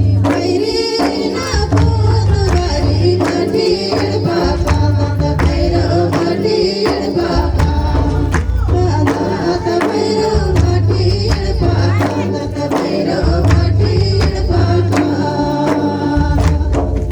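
A Kurukh folk song: singing over steady drum and jingling tambourine-like percussion, with a pulsing bass beat.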